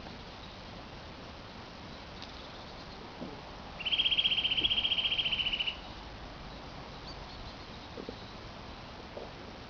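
A bird singing one rapid, even trill at a steady high pitch, about two seconds long, starting about four seconds in.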